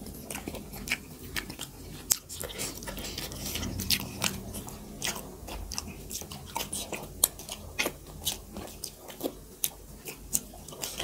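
Close-miked wet chewing and lip smacking as two people eat makai dhido and chicken curry by hand, with many sharp mouth clicks each second.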